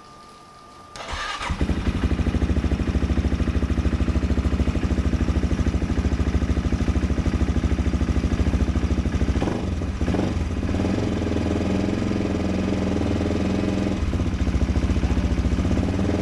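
AJP PR7's single-cylinder engine starting about a second in, then idling with an even beat and a brief blip of the throttle about ten seconds in. It is running on a substitute relay fitted to test for a burnt charging relay.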